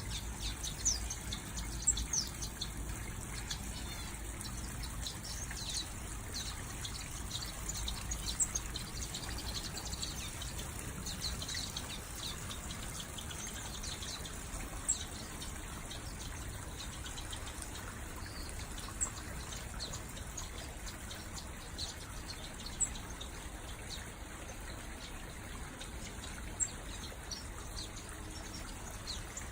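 Small aviary finches and waxbills chirping: many short, high cheeps, busy for the first dozen seconds and then scattered single calls, over a steady background hiss.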